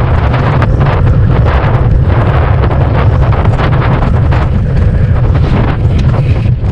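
Heavy wind buffeting a microphone while cycling: a loud, steady low rumble with rushing noise over it.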